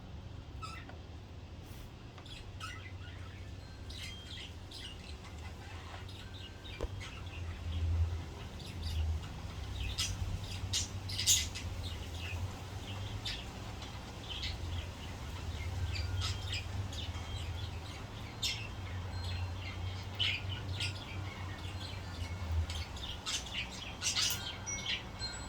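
Pet budgies chirping and squawking in many short, high calls, over a steady low hum.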